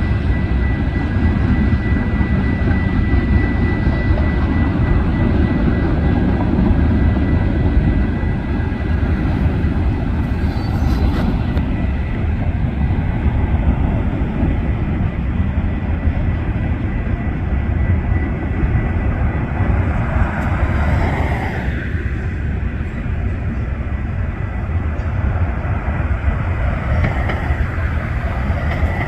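A passing train: a steady, loud low rumble of locomotive and rolling wheels, with a thin high whine in the first few seconds and a falling pitch sweep about two-thirds of the way through.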